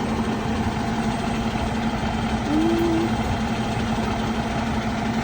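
A vehicle engine idling steadily with a constant low hum. A short tone that rises slightly sounds about two and a half seconds in.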